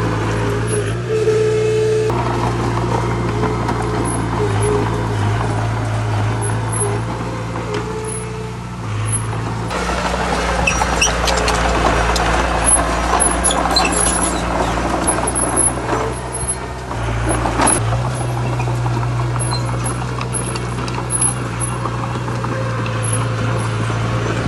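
Heavy diesel engine of earthmoving machinery running steadily under load. Its tone shifts about ten seconds in and again near eighteen seconds, and a clattering, noisier stretch comes between the two shifts.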